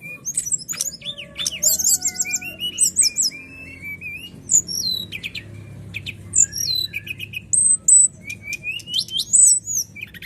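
A songbird singing a fast, varied song of short whistled notes, quick up-and-down sweeps and rapid trills, high-pitched and continuous with only brief gaps.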